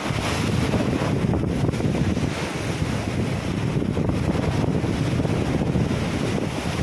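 Ocean waves splashing and surging, with wind buffeting the microphone in a steady low rumble.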